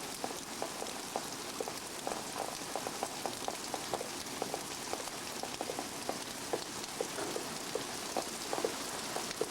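Heavy rain pouring down steadily, with many irregular drops ticking and plinking.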